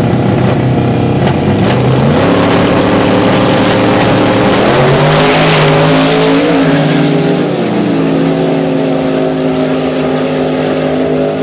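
Drag-racing vehicle's engine running hard at full throttle. Its loud, steady note steps up in pitch a couple of times, with a swell of hiss about midway, and settles a little lower near the end.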